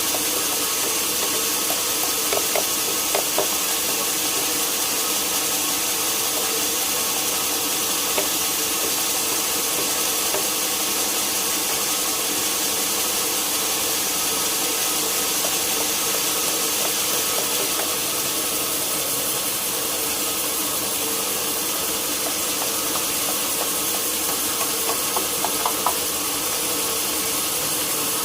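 Sawmill machinery running steadily: an even hiss with a constant hum under it, and a few light knocks a few seconds in and again near the end.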